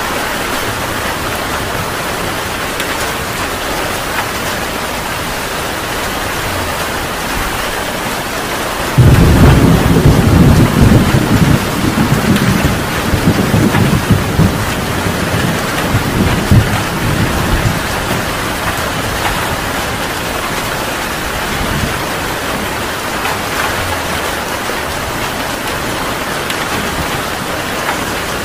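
Heavy rain falling steadily, with a thunderclap about a third of the way in that breaks suddenly and then rumbles on in rolling waves for several seconds before fading back under the rain.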